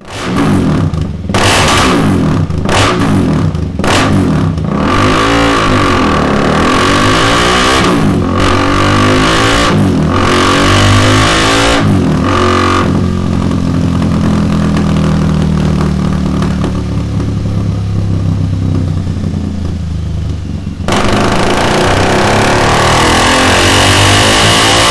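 KTM 390 Duke's single-cylinder engine running through a Delkevic carbon-fibre muffler on a dyno: a string of short revs rising and falling for the first half, then held at a steady speed, turning louder and harsher about 21 seconds in.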